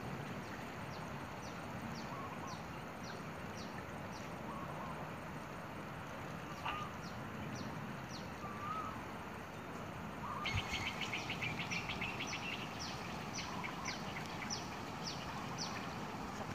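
Small birds calling over a steady outdoor hiss: a short, high, falling chirp repeated about twice a second, with a few lower whistled notes between. About ten seconds in, a fast, dense high chattering joins the chirps.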